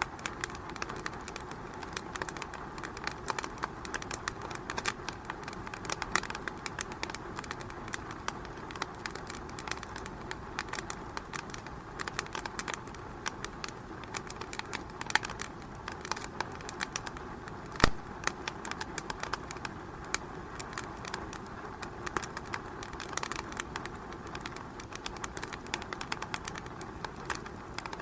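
Wood fire in a fireplace crackling steadily with many small irregular pops, and one much louder pop about two-thirds of the way through.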